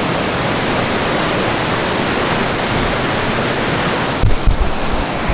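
Steady loud rush of falling water, with a short cluster of low thumps about four seconds in.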